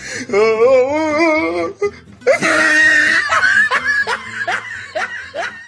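Comic meme sound-effect clip of a voice: a wavering, warbling held note, then a loud burst about two seconds in, followed by a quick run of short laughs, each falling in pitch.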